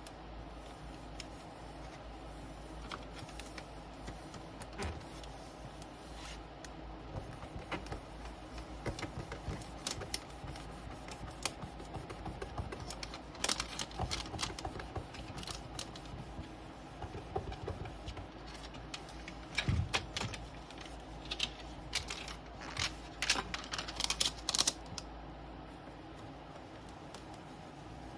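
Irregular small clicks and taps of hand work at a bench, tools and plastic film being handled while polarizer film is fitted to an LCD panel. They are sparse at first and busier later, with a few sharper clicks near the end, over a faint steady low hum.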